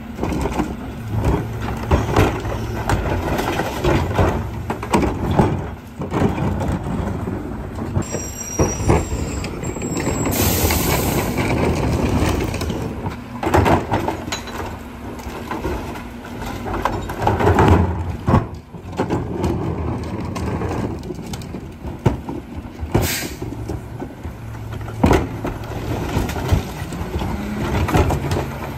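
Garbage truck's engine running, with repeated clanks and knocks throughout and a short hiss of air about ten seconds in, with another brief one later on.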